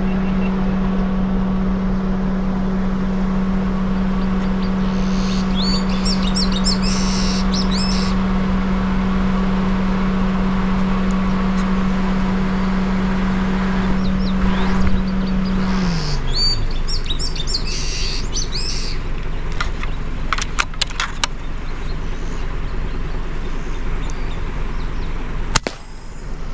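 A car engine runs with a steady hum, then is switched off about two-thirds of the way through, its pitch sliding down as it stops. Birds chirp over it twice, and a few sharp clicks come near the end.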